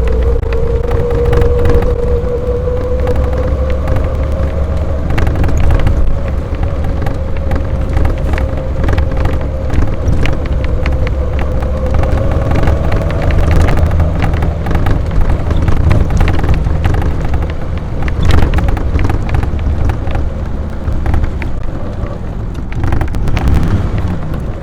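AC Buckland's straight-six engine pulling on the road, heard from inside the open car, its note rising slowly over the first half and then holding steady. Loose bodywork rattles throughout, mostly the scuttle.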